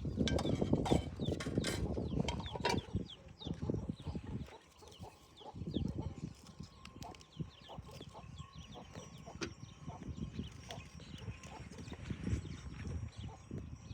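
Small birds chirping many times in quick short calls, over irregular close rustling and knocking sounds, which are heaviest in the first few seconds.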